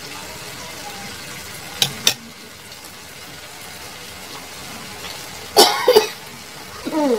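Sliced okra sizzling steadily in a frying pan, with two sharp clicks of the spatula against the pan about two seconds in. About five and a half seconds in, a loud short cough from a person, then a brief throat sound near the end.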